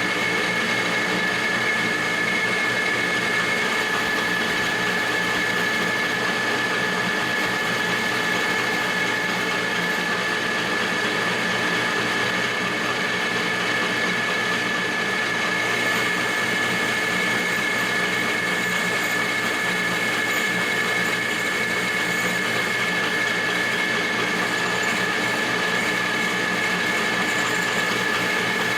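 Metal lathe running steadily with a constant high whine from its drive, turning a 6061 aluminium bar while it is roughed down toward a sphere.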